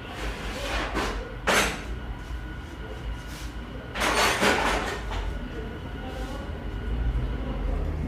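Workshop clinks and scrapes of hand tools and metal engine parts as a TGB scooter's cylinder and piston are dismantled: a sharp clink about a second and a half in and a longer scraping rattle about four seconds in, over a low steady hum.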